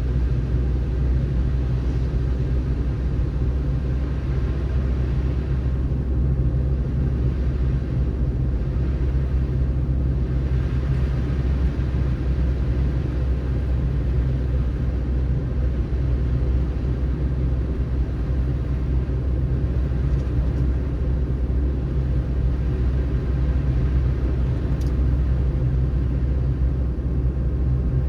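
Car driving on a snowy road: a steady low rumble of engine and tyres with an even road hiss above it.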